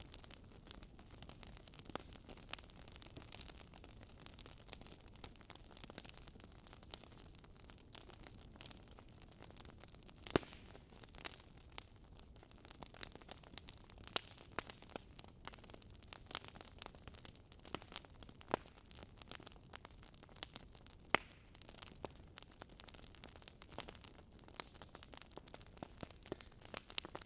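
Wood fire crackling in a fireplace: irregular sharp pops and snaps over a faint steady hiss, with a louder pop about ten seconds in and another about twenty-one seconds in.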